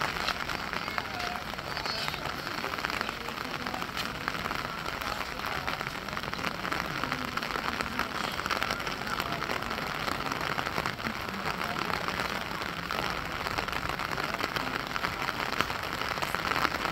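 Steady rain falling, a continuous even patter and hiss.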